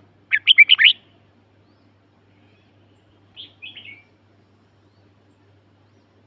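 A songbird singing: a loud, quick phrase of about five rapid notes about half a second in, then a shorter, softer phrase about three and a half seconds in.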